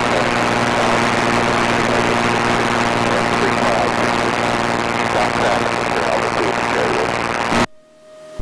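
Light aircraft's piston engine droning steadily, heard inside the cockpit as a loud, even cabin noise. It cuts off abruptly near the end.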